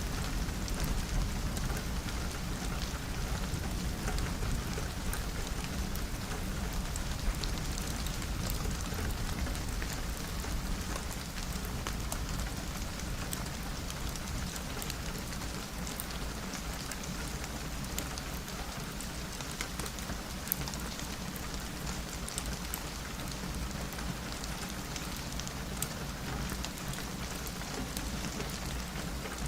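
Steady rain pattering on a window, with scattered sharp drop ticks. A low thunder rumble underneath eases off about halfway through.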